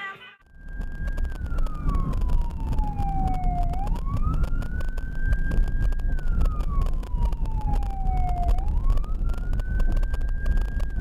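Emergency vehicle siren on a slow wail, its pitch climbing, holding briefly and sliding down again about every five seconds, over a steady low rumble of road and engine noise.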